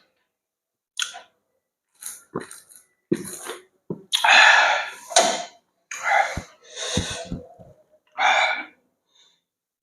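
Close-miked eating sounds: a series of short, noisy bites and chews of about half a second to a second each, with dead silence between them.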